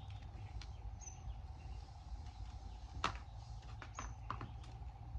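Scattered sharp taps and knocks, the loudest about three seconds in, over a steady low hum, with two brief high chirps.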